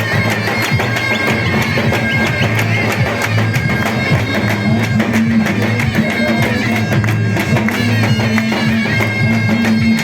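Davul and zurna playing a halay dance tune: the zurna's double-reed melody wavers and ornaments over rapid, steady davul drum strokes.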